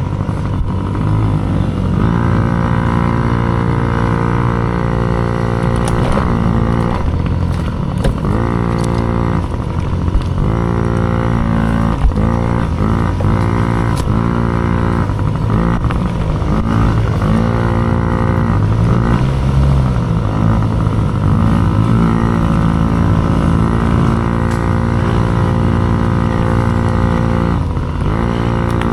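Dirt bike engine running hard under constant throttle changes, its pitch repeatedly climbing and then dropping off as the rider rolls on and off the gas through gear changes.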